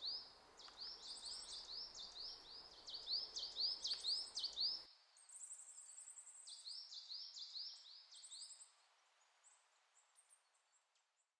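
Small birds singing: quick runs of repeated chirps with higher trills above them, ending about nine seconds in.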